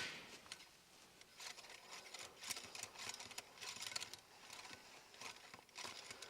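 Faint, scattered small ticks and scrapes of a tool backing out the screws that hold a PCP air rifle's air tank. A sharp metal click is dying away at the very start.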